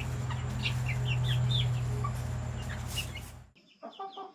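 Chickens clucking and chirping in short, quick calls, over a steady low hum that cuts off suddenly near the end.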